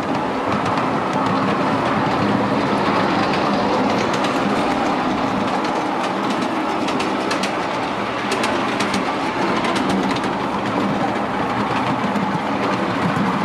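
Miniature railway train running along the track, a steady rumble with sharp clicks of the wheels over the rail joints from a few seconds in until near the end.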